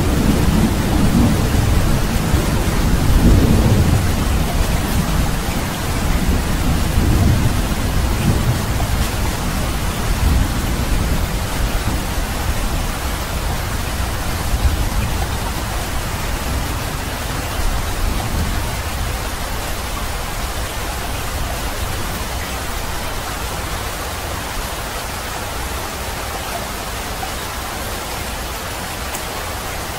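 Steady rain hissing, with thunder rumbling low in the first several seconds. The rumble fades away, leaving an even rain hiss that grows slightly quieter toward the end.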